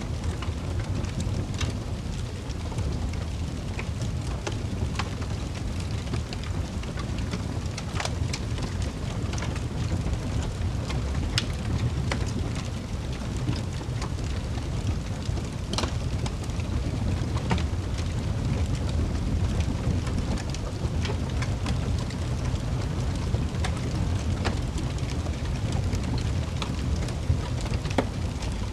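Wood fire crackling in a fireplace: scattered sharp pops and snaps, several a second, over a low steady rumble.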